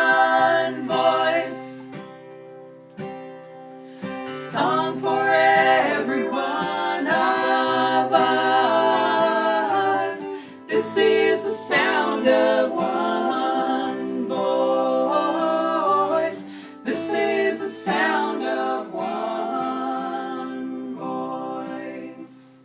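Several voices singing in harmony over a plucked acoustic guitar, in long held phrases with short breaks between them, fading out near the end.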